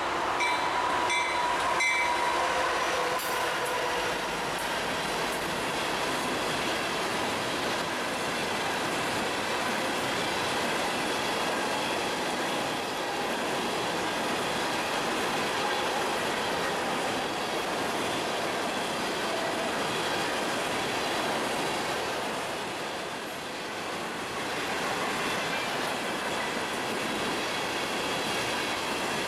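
Freight cars of a coal train rolling past on the main line: a steady rumble and clatter of wheels on rail, with some high wheel squeal in the first couple of seconds.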